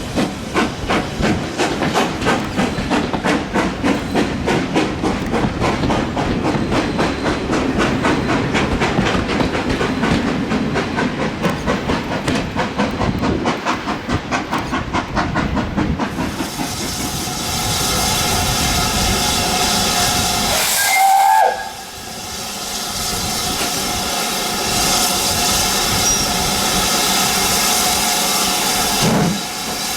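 Steam locomotive working with a regular chuff of exhaust beats. The beats then give way to a steady rush of steam hiss, and a whistle sounds loudly about two-thirds of the way through before cutting off.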